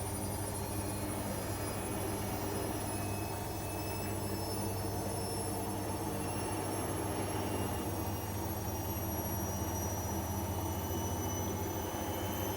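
Bosch Avantixx 7 WAQ2849S front-loading washing machine running: a steady motor hum with a faint high whine that slowly creeps up in pitch.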